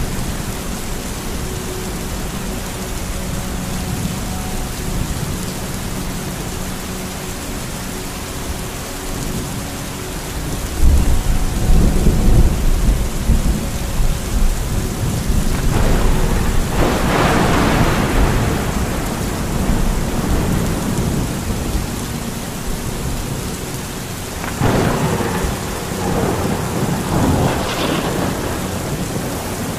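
Thunderstorm: steady rain with thunder, a deep rolling rumble starting about eleven seconds in, a sharper crack around seventeen seconds and more claps near the end.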